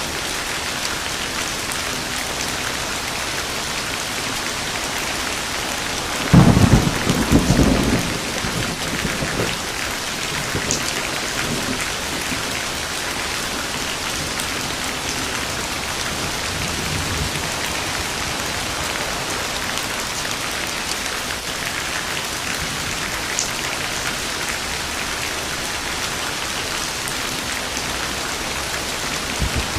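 Steady heavy rain falling, with a single thunderclap rumbling loudly about six seconds in and dying away over the next few seconds.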